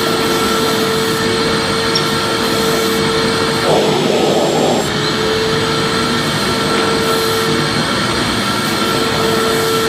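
Vacuum cleaner running steadily, a loud even whoosh with a constant motor whine. About four seconds in the whine wavers for about a second, then settles back.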